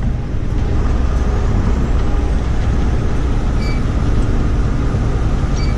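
Steady engine and road rumble inside a moving vehicle's cab at highway speed, picked up by a camera standing on the cab floor.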